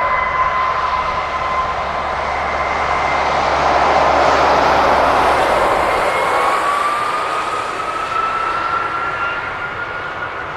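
Boeing 757-200F freighter's jet engines at takeoff power: a loud roar with a high whine, swelling to its loudest about four to five seconds in as the aircraft passes, then slowly easing. In the second half a whine rises gradually in pitch.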